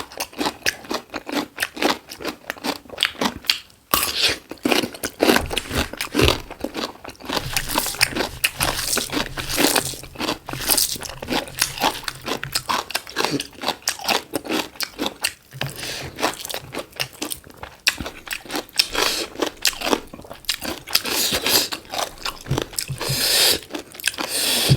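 Close-miked chewing and crunching while eating black chicken: a steady run of wet crunches and small clicks of food being bitten and chewed.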